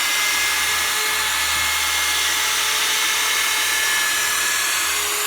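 Power sander with a sandpaper disc running steadily while wet sanding a plastic headlight lens under light pressure, a constant motor whine over the rasp of the pad on the plastic.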